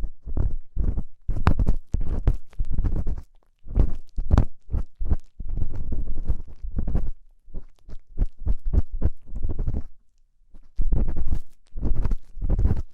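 Ear-cleaning tool scraping and rubbing close against a microphone's ear, in quick, irregular strokes with crunchy earwax-scraping sounds. There is a brief pause about ten seconds in.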